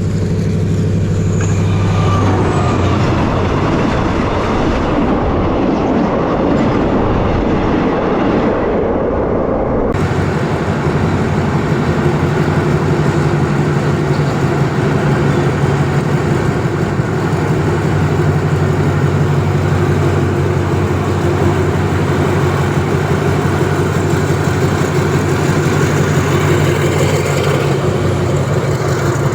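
Diesel-hauled passenger train running along the track: a steady low engine hum under the rumble and rattle of the carriages and wheels. The sound changes abruptly about ten seconds in.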